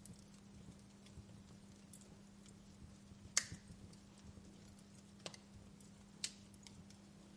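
Wood fire in a fireplace crackling softly, with a few sharp pops, the loudest about three seconds in and two more near the end, over a low steady hum.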